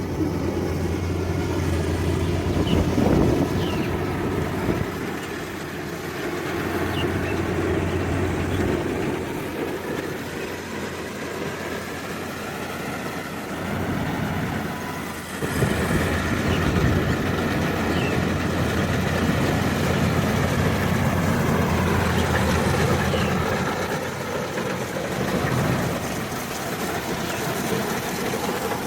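World 88 HP rice combine harvester running, its engine and machinery making a steady noise that rises and falls, with a sudden step up in level about halfway through.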